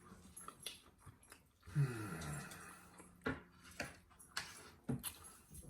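Quiet eating at the table: scattered short clicks and taps, typical of cutlery and chewing. About two seconds in comes one short vocal sound that falls in pitch.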